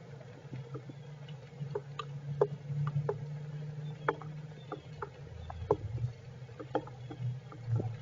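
Rain drips tapping irregularly on the squirrels' shelter, a few sharp ticks a second over a low steady hum.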